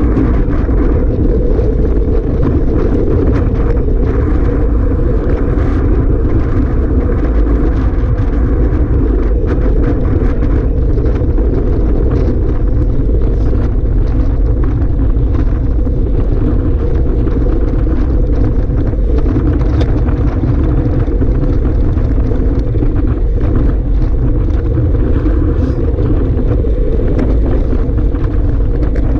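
Strong wind blowing over the microphone: a loud, steady low rumble that keeps on without a break.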